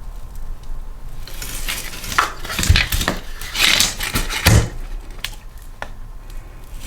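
Metal tools and engine parts clinking and rattling on a workbench, with two heavier knocks in the middle and a few light clicks near the end.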